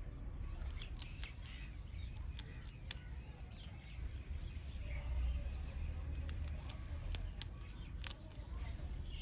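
Irregular sharp clicks and crunches of animals feeding, pecking and cracking seed, over a steady low rumble.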